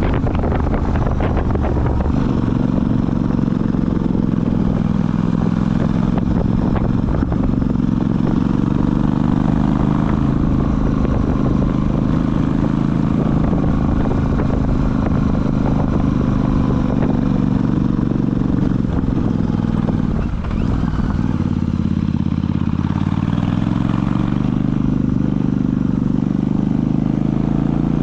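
Royal Enfield Super Meteor 650's 648 cc parallel-twin engine running steadily under way. The engine note drops briefly about twenty seconds in, then rises again.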